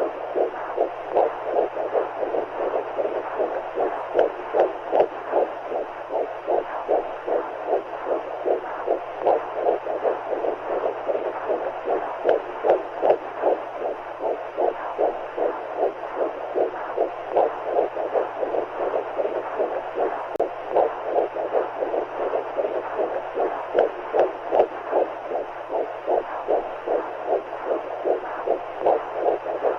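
Womb-sound white noise: a muffled, whooshing heartbeat pulsing steadily at about two beats a second over a continuous hiss of fluid noise, meant to mimic what a baby hears in the uterus.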